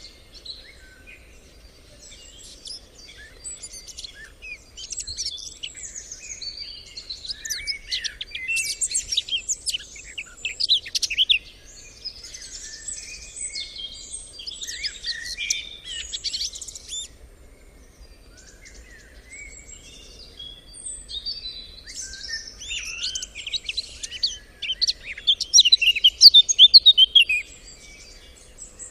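Songbirds chirping and twittering, many quick overlapping calls at once, swelling louder about a third of the way in and again near the end.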